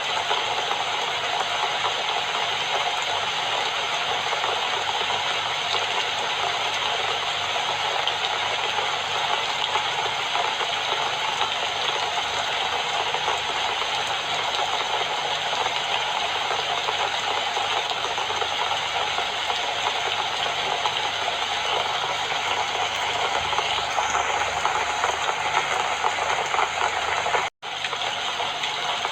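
Steady rain falling, an even hiss of many drops, with a split-second cut-out in the sound near the end.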